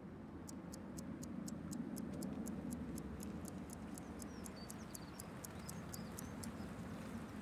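Low, steady rumble of a Honda Civic sedan's engine as the car drives up and pulls into a parking space, with light rapid ticking, about five ticks a second, like a clock, over it that stops near the end. A few faint bird chirps.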